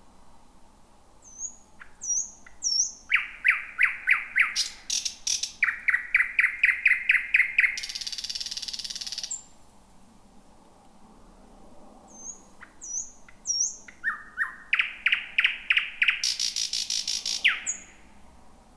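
Thrush nightingale singing two song phrases. Each opens with a few high, curving whistles, then a run of rapid, loud repeated notes, and ends in a dry, buzzing rattle. The first rattle lasts about a second and a half; the second, near the end, is slightly shorter.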